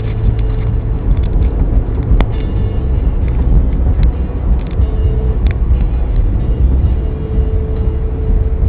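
Steady low rumble of a car driving, the engine and road noise heard from the vehicle, with a faint wavering tone and a few light clicks over it.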